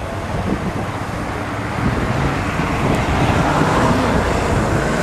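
Motorcycle engine running, growing steadily louder as the bike comes closer.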